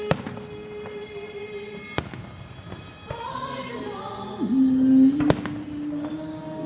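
Three sharp firework bangs, the second about two seconds after the first and the third about three seconds later, over music that swells with a wavering melody between the second and third bang.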